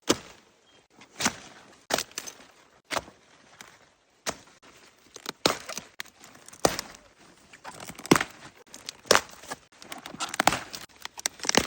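Dull knocks and thuds, about one a second, over a quiet outdoor background.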